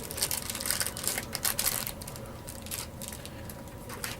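Plastic Twinkie wrappers crinkling and crackling as they are torn open by hand. The crackling is dense for the first couple of seconds, then eases to a few soft rustles.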